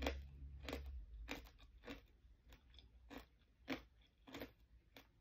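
A person chewing a mouthful of rice and mung bean stew close to the microphone, a short wet stroke about every two-thirds of a second.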